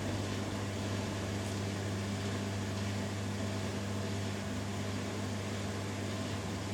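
Two front-loading washing machines, a Hoover Dynamic Next DXA610IW3 and a Beko Pro AquaTech WX94044EO, running early in their spin cycles: a steady low hum with a fainter whir, at an even level.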